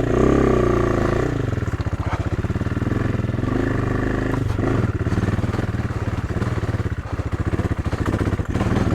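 AJP PR7's single-cylinder engine pulling in first gear up a steep stony climb, revving up in the first second and then chugging steadily under load.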